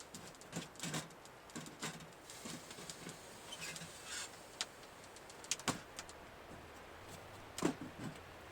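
Irregular clicks, knocks and rustles, the loudest two knocks a couple of seconds apart in the second half, over a faint low hum that begins partway through.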